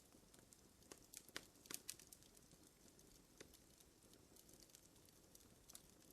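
Faint fire crackling: irregular small pops and snaps, several close together in the first two seconds, over a low steady hiss.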